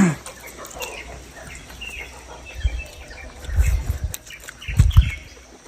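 Faint, scattered chirping of birds, with a few low thuds about two and a half, three and a half and five seconds in.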